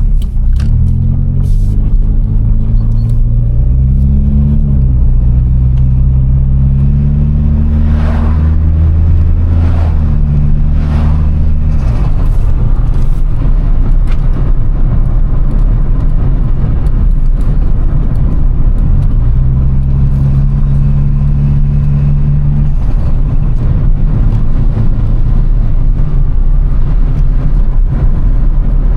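Toyota Starlet Glanza V's turbocharged engine under acceleration, its note rising in pitch through a gear change over the first several seconds. The note drops away about twelve seconds in and gives way to rougher running noise. A steady engine note returns briefly about twenty seconds in.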